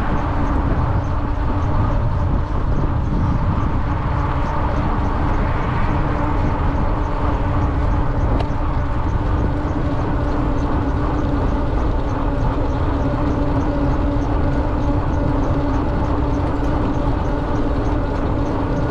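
Steady wind rush and rolling noise from a moving electric bike, with a steady hum throughout.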